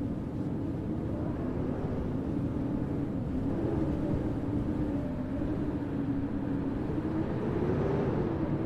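Steady low rumble of city traffic with a continuous, slightly wavering engine hum.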